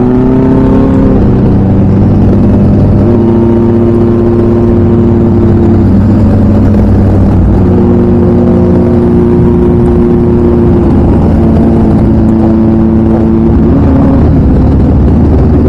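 Modified Kawasaki Ninja motorcycle engine running loud through an aftermarket full-system exhaust. It is revved up, then held at steady revs for a few seconds at a time, with brief drops in between.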